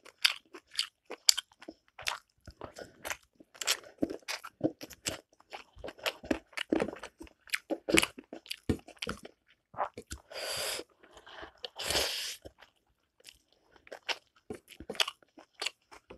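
Close-miked wet chewing and mouth smacking of a mouthful of rice and greens eaten by hand: a quick, irregular run of clicks and smacks. Two short hissing sounds come about ten and twelve seconds in.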